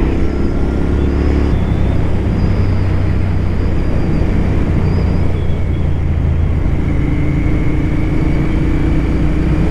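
Royal Enfield Continental GT 650's parallel-twin engine under way with heavy wind roar over the helmet microphone. The engine's tone drops back about a second and a half in, leaving mostly wind, and comes back about seven seconds in, climbing slowly as the bike speeds up.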